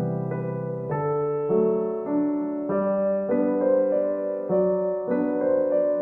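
Soft background piano music: sustained chords and a melody changing about every half second over a steady bass line.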